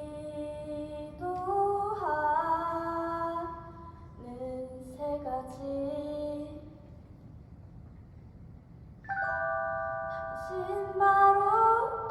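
A woman singing a slow melody solo in long held notes. A sustained instrumental chord comes in suddenly about nine seconds in, and the voice rises over it near the end.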